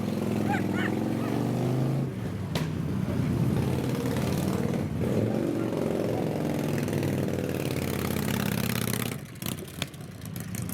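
Motorcycle engines running nearby with a steady low rumble that drops away about nine seconds in.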